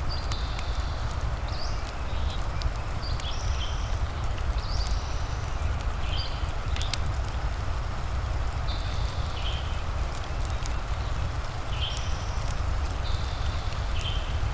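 Rain and fireplace ambience: a steady hiss with a deep low rumble, sharp crackles from the fire scattered through it, and repeated short high animal calls over the top, every second or so.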